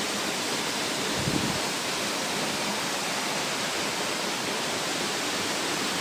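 Steady rush of flowing water from a nearby stream or waterfall, with one brief low thump a little over a second in.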